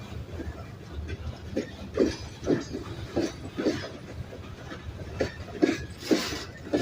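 Model train running on a layout, its wheels clicking and knocking irregularly over the track over a low rumble.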